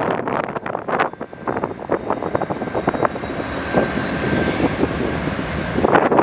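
A large engine running steadily, with gusts of wind buffeting the microphone and a faint rising whine in the second half.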